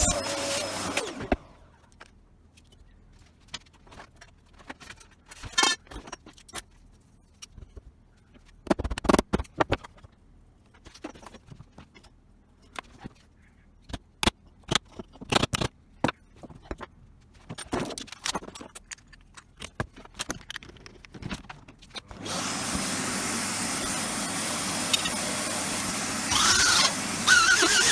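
A power tool running, then winding down and stopping within the first couple of seconds. Scattered clicks and knocks of parts being handled follow. About 22 seconds in, the power tool starts again and runs steadily.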